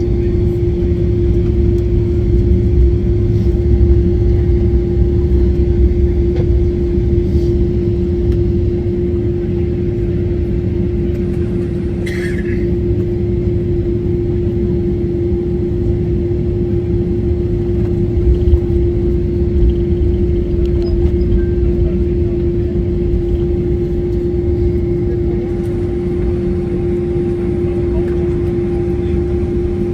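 Steady low rumble inside a moving vehicle, with a constant hum running through it and a brief high squeak about twelve seconds in.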